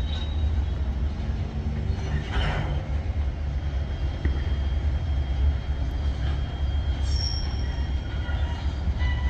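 Freight train cars rolling slowly through a rail yard with a steady low rumble, the steel wheels squealing in thin high tones now and then, most strongly near the end.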